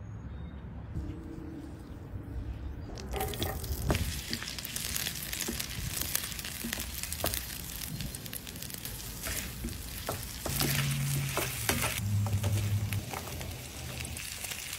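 Small potatoes frying in butter and oil in a hot pan, sizzling with crackles from about three seconds in. A low hum comes in for a couple of seconds past the middle.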